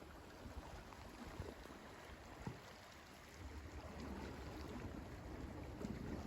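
Wind rumbling on the microphone over gentle water at the shore, getting louder about halfway through.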